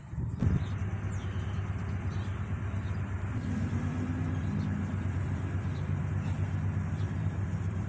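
Top-loading washing machine on its spin cycle, the drum and motor humming steadily after a step up in level about half a second in. The spin sound is very quiet, with no abnormal noise, because the clutch has just been replaced.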